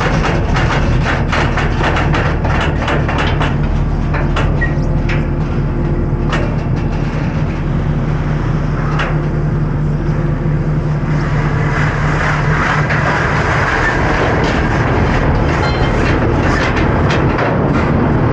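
Compact track loader's diesel engine running steadily, with many sharp clanks and rattles, thickest over the first several seconds and again near the end.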